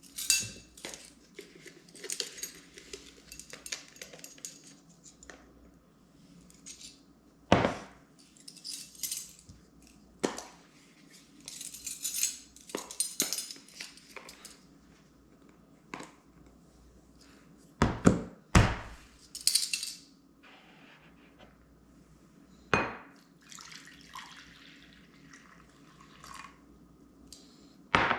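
Kitchen clatter: dishes, pans and utensils knocking and clinking on and off, with a few sharper clanks, the loudest a close pair about two-thirds of the way through.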